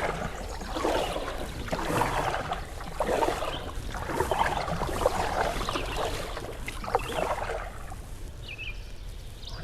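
Canoe paddle strokes in river water: a swishing, splashing stroke about once a second, easing off near the end.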